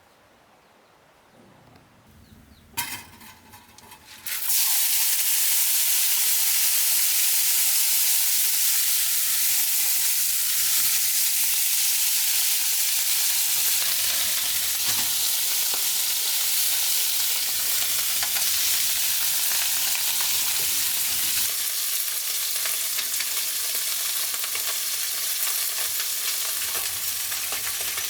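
Food going into hot oil in a pan: a sudden loud sizzle starts about four seconds in, after a few small knocks, and keeps frying steadily, easing a little near the end.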